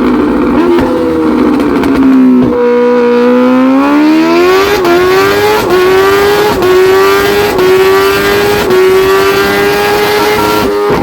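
Kawasaki Ninja H2's supercharged inline-four running flat out on a dyno: the pitch climbs hard, then keeps climbing in steps with a brief dip about once a second at each upshift, before shutting off near the end.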